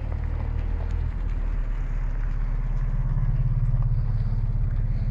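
Car engine running close by, a low steady note that rises in pitch and grows louder about two seconds in.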